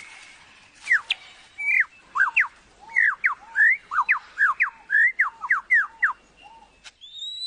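Male superb lyrebird singing: a fast run of loud, sharp whistled notes, most sweeping steeply downward. Near the end a long, steady whistled note begins.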